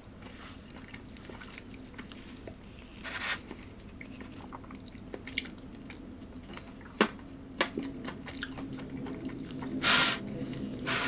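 A person chewing and biting food close to the microphone, with scattered small clicks and crunches and a louder crunching burst near the end.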